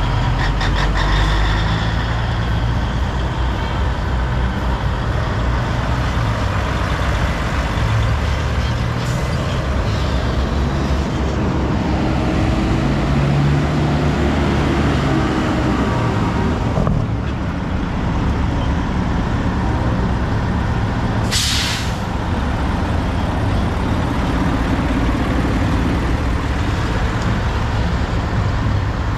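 Heavy diesel truck engine running steadily. About two-thirds of the way through there is one short hiss of released air from the truck's air system.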